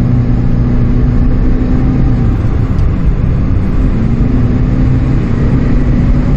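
Chevrolet Spark's engine running under hard throttle, heard from inside the cabin with road noise: a steady drone whose pitch dips about two seconds in and climbs again near the end.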